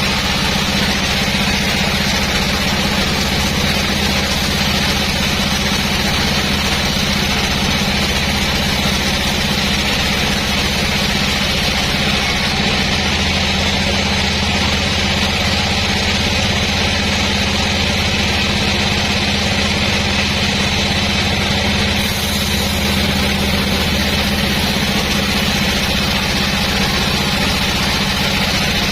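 Sawmill machinery running steadily, a constant engine-like drone with a low hum and no changes in load.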